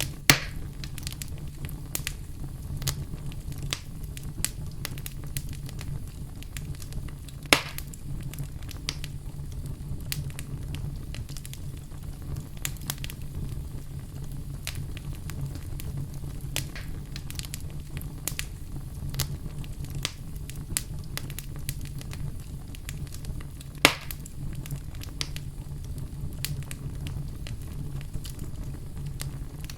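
Fireplace fire crackling steadily, with frequent small snaps and three louder pops, over a low steady rumble.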